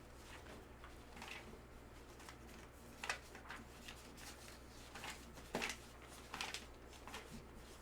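Trading cards and their packaging being handled: scattered faint rustles and light taps, with a few sharper ones between about three and seven seconds in.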